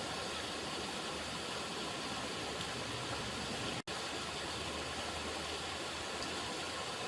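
River water running, a steady even rush of flowing water, with a momentary dropout a little past halfway.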